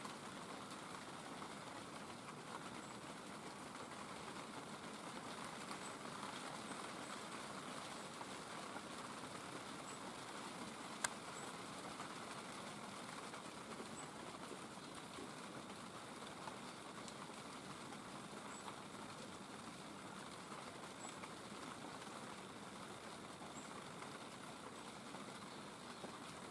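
Faint, steady outdoor background hiss with a single sharp tap or click partway through, and a few very faint, high, short chirps.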